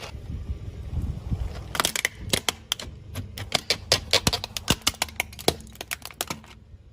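A car tyre rolling over and crushing brittle objects: a rapid, irregular series of sharp cracks and snaps over a low engine rumble. The cracking starts about two seconds in and stops shortly before the end.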